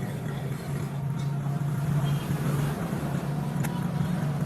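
An engine running steadily at idle with a low, even hum, growing slightly louder about halfway through.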